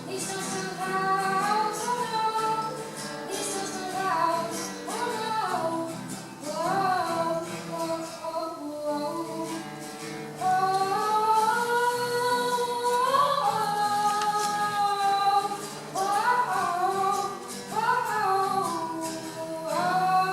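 A song: a high voice sings a gliding melody over steady, sustained low accompanying notes.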